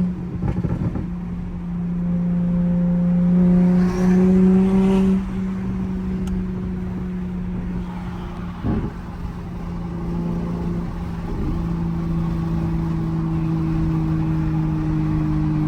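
Toyota Supra Mk5's turbocharged B58 inline-six running at a steady cruise, heard from inside the car. The engine note climbs a little over the first five seconds, dips briefly around five and nine seconds in, then holds steady and drifts slightly lower.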